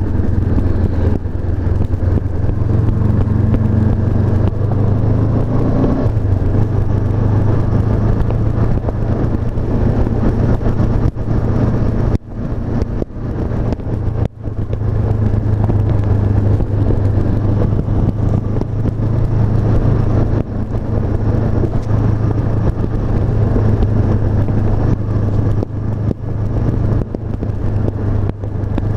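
Honda CB500F's parallel-twin engine running steadily under way, with a strong low drone. The engine note briefly drops twice near the middle.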